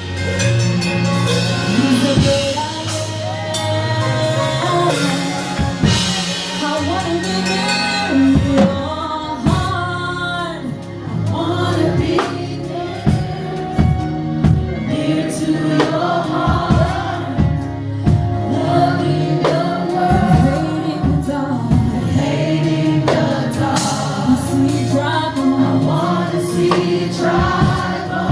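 A gospel choir and worship singers singing a worship song over a live band, with sustained keyboard and bass and regular drum hits.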